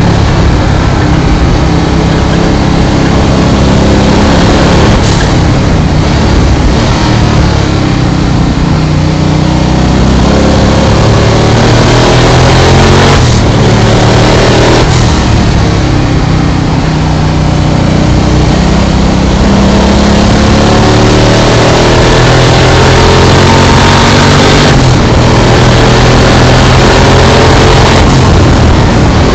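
Twin-turbo 347 cubic-inch Ford Windsor V8 pulling hard on track, heard from inside the cockpit, running on low boost through newly fitted mufflers. The engine note climbs and drops back several times as it works up through the gears and eases off for corners.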